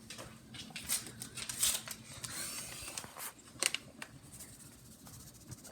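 Taco seasoning packet crinkling as it is handled and shaken out, with scattered light clicks and a brief soft hiss.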